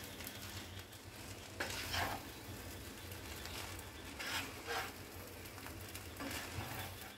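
Prawn fried rice sizzling in a pan as a wooden spatula stirs and turns it, with a few brief scraping strokes of the spatula through the rice.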